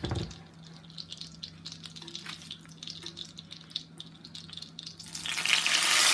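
Butter and bacon grease crackling faintly in a hot cast iron skillet, then a loud sizzle about five seconds in as a spoonful of milky corn mixture hits the hot fat.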